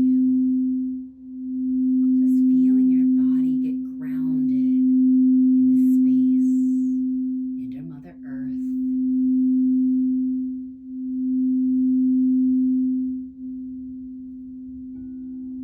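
Singing bowl sounding one steady low tone that swells and fades every two to three seconds. A second, slightly higher tone joins near the end.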